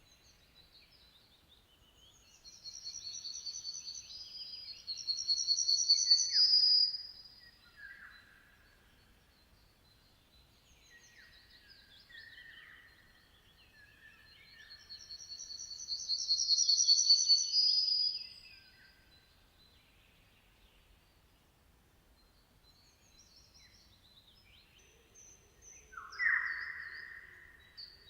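Songbirds singing: two loud, high, trilling song phrases about ten seconds apart, each a few seconds long, with quieter, lower calls between them and a short, sharper call near the end.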